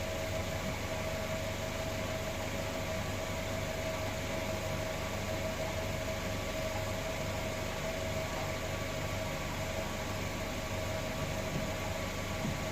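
A steady machine hum with a constant mid-pitched tone over an even hiss, unchanging throughout.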